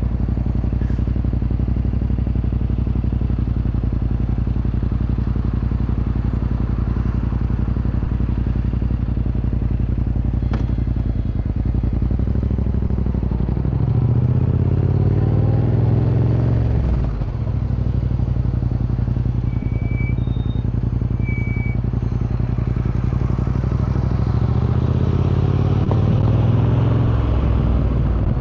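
2025 Yamaha MT-07's 689 cc parallel-twin engine through an Akrapovic Racing Line exhaust, on the move. It holds a steady drone for the first dozen seconds, then the revs rise under throttle, dip briefly about halfway through, and climb again near the end.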